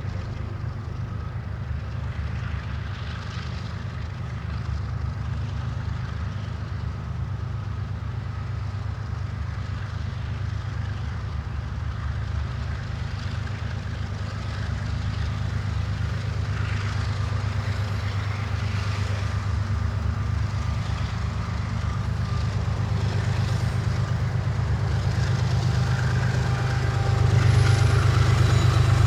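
Train running, a steady low rumble that grows gradually louder toward the end.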